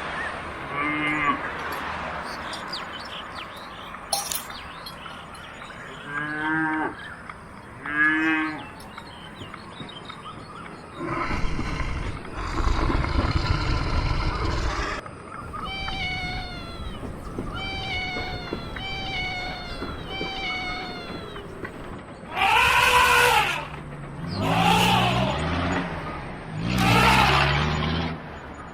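Assorted animal calls in a string of separate clips: a few short cries, a loud noisy stretch in the middle, a run of about five quick falling calls, then three loud, long calls near the end.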